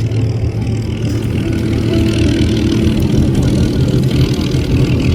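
An engine running steadily, gradually getting louder.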